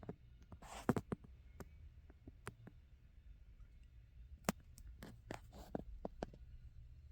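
Scattered light clicks and taps of small diecast model cars being handled and set down, with a louder click about a second in and a few more midway through, over a faint low hum.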